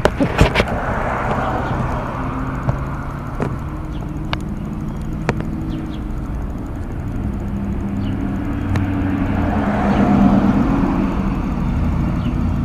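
A slow-moving train rumbling past, with a few sharp, irregular clicks and knocks from the wheels and cars. The noise swells about a second in and again near the end.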